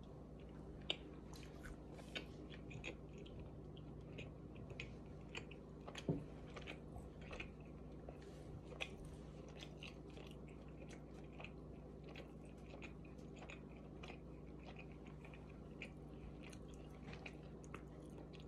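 A person chewing a mouthful of udon noodles and steak with the mouth closed: soft, irregular wet clicks and smacks, over a steady low hum.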